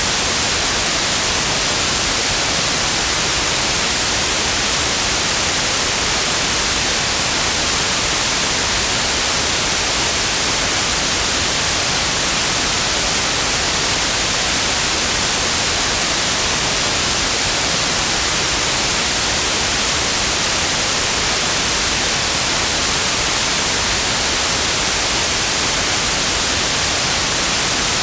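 Steady synthetic white noise: an even hiss, brighter in the high frequencies, that does not change.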